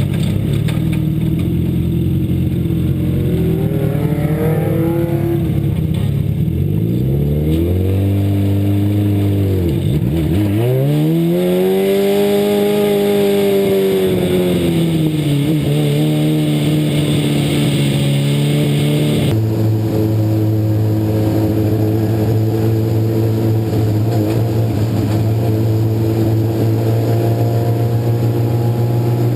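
Legend race car's four-cylinder Yamaha motorcycle engine, heard from inside the car, its revs falling and climbing again several times as it lifts and accelerates, then holding a steady pitch for about the last ten seconds before rising once more at the end.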